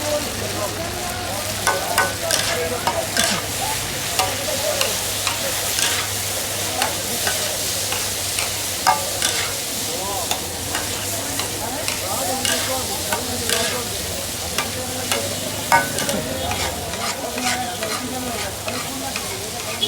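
Chicken chaap frying in hot oil, sizzling steadily, with frequent sharp clicks and knocks.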